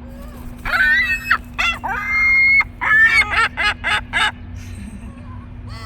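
Gulls calling: several loud, wavering calls, then a quick run of about six short yelping calls that stops a little over four seconds in.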